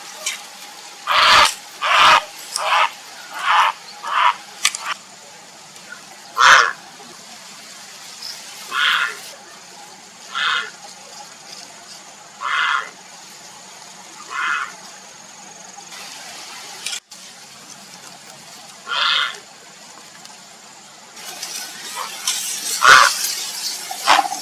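Grey heron calling: short, harsh calls, first a quick run of about six spaced a little under a second apart, then single calls every couple of seconds, and a denser cluster of louder calls near the end.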